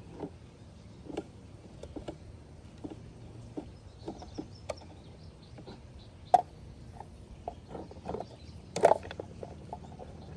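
Irregular light plastic clicks and knocks from a toy garbage truck and its bins being handled, with a sharp knock about six seconds in and a cluster of knocks near the end.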